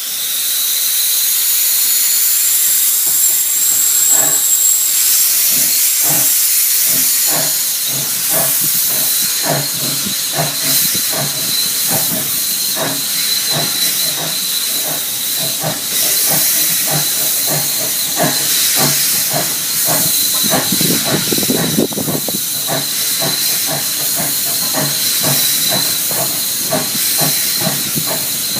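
Steam locomotive pulling away: a loud, steady hiss of steam with regular beats, about two to three a second.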